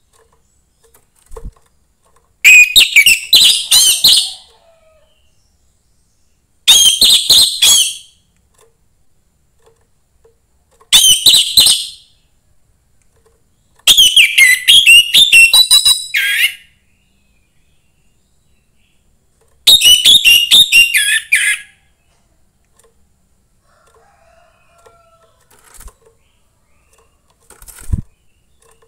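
Young wild orange-headed thrush (anis merah) singing: five short, loud, high-pitched warbled phrases of one to two and a half seconds each, with pauses of two to four seconds between them.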